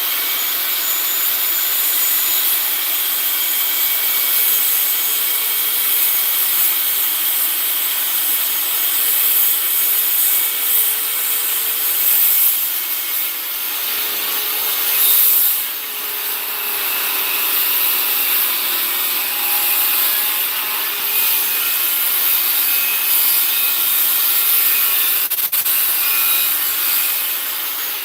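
Electric power saw cutting wood: a steady motor whine with the noise of the blade in the wood. It eases off briefly about halfway and then carries on.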